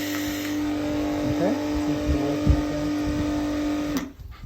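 Nilfisk electric pressure washer running with a steady hum, then cutting off abruptly about four seconds in, with a short thump about halfway. The motor runs, and the owner suspects the fault lies in the pressure side rather than the motor.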